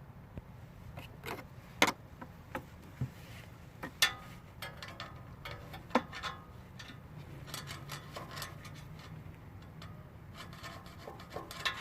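Sharp clicks and light scraping as something hard taps and scratches epoxy putty on an exhaust pipe; the putty has cured as hard as stone.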